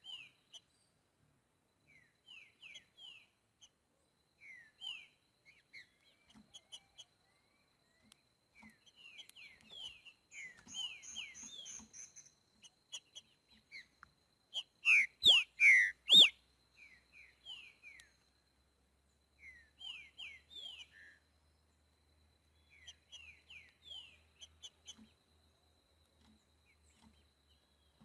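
Green-winged saltator (trinca-ferro) singing: a loud phrase of a few strong whistled notes about halfway through, among many scattered softer short chirps.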